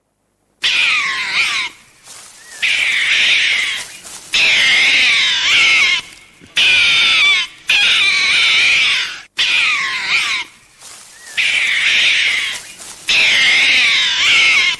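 An animal calling loudly over and over, each wavering, high call lasting a second or two, with short breaks between.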